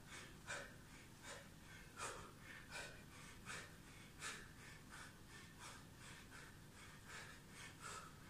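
A man breathing hard during exercise: short, sharp breaths in quick succession that thin out after about five seconds. The sound is faint.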